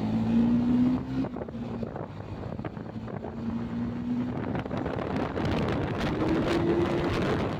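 Motorcycle engine running while riding, its pitch shifting up and down, with wind rushing over the microphone.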